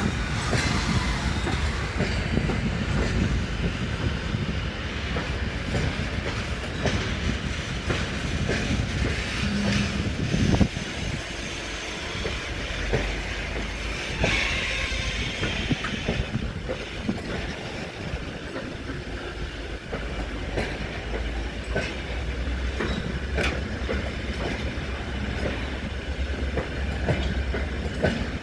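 Freight train wagons rolling past, the wheels clicking and knocking over rail joints above a steady low rumble, with a brief high wheel squeal about halfway through.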